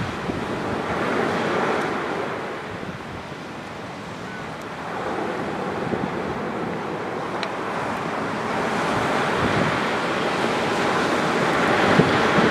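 Surf washing onto a sandy beach from a slightly rough sea, with wind on the microphone. The wash swells in the first two seconds, eases, then builds again to its loudest near the end, with a few faint clicks.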